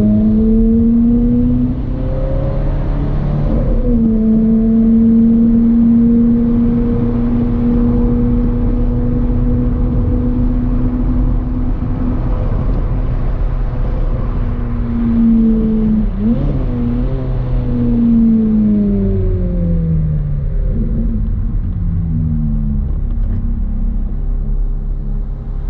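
Ferrari F430's 4.3-litre V8 running under way. The engine pitch climbs over the first few seconds and then holds steady, dips and recovers briefly around the middle, and drops in several steps near the end.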